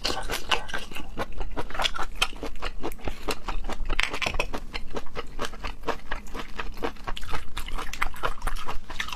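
Close-miked wet chewing of raw shellfish: a quick, continuous run of moist mouth clicks and smacks.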